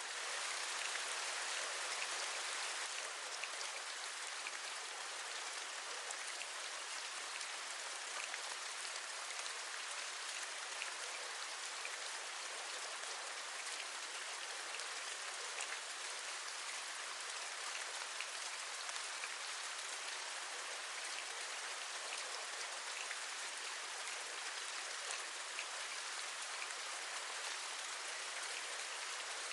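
Steady rain, with scattered individual drops tapping, a little heavier for the first few seconds.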